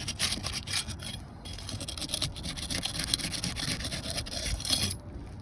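Steel flat bar scraping and prying under asphalt shingle tabs to break their adhesive seal, a rapid rasping that stops abruptly near the end.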